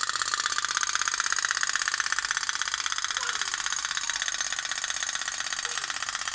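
Toy pop-pop boat (kapal otok-otok) engine running, its flame-heated boiler making a fast, steady putt-putt of even ticks.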